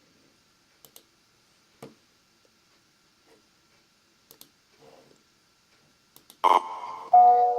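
A few scattered light clicks. About six and a half seconds in comes a sudden loud burst, and music with held notes starts just after it.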